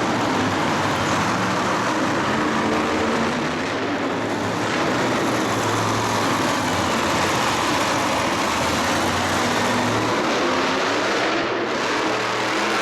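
Motorsport engines running loudly and steadily in a stadium arena, their low engine note shifting a little over a dense wash of noise.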